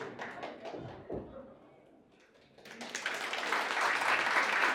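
Wedding guests applauding in a hall. The clapping starts about three seconds in, after a brief lull, and quickly builds to a steady, dense applause.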